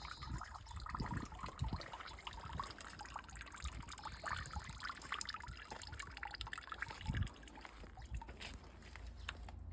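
Faint water trickling and splashing, with scattered small clicks and knocks.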